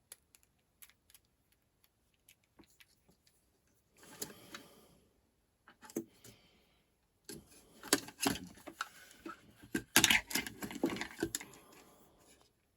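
Small parts and tools being handled on a workbench: scattered light clicks, then bursts of clattering and rattling, busiest and loudest in the second half.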